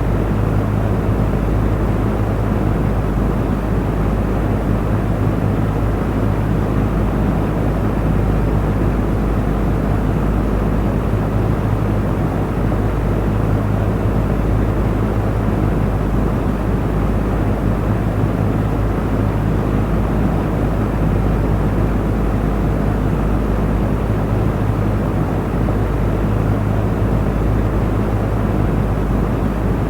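Electric fan running steadily: an even rush of air over a low motor hum, unchanging throughout.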